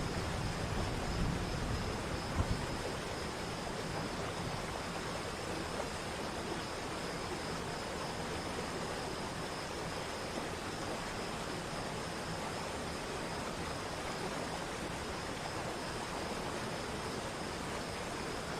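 Steady rush of water from a waterfall, with a few low rumbles in the first two or three seconds.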